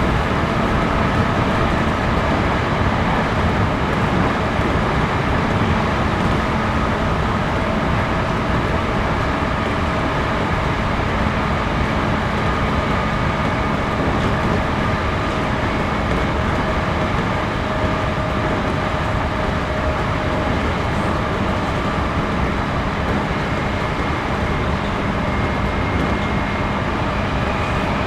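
Running noise of a JR Series 211-5000 electric multiple unit heard inside the passenger car: a steady rumble of wheels on rail with faint motor and gear tones, the train cruising at an even pace.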